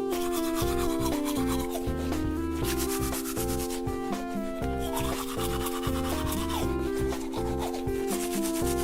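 A toothbrush scrubbing back and forth over a toy's teeth in quick repeated strokes, over a light background music melody.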